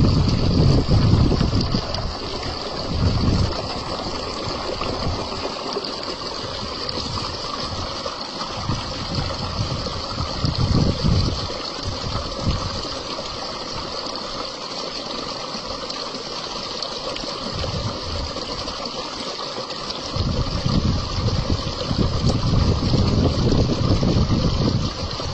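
Running stream water, a steady rushing, with wind gusting on the microphone as low rumbles at the start, around the middle and through the last few seconds.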